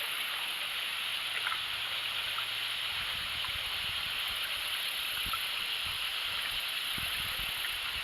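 Small stream rushing steadily over rocks, with scattered low thumps and bumps joining in about three seconds in.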